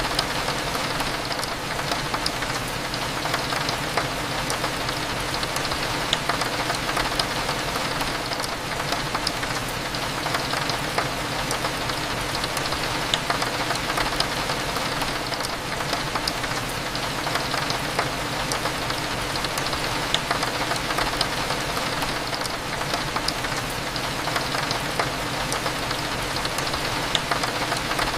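Steady rain pattering on window glass, with many small drop ticks, over a low, steady cafe hum.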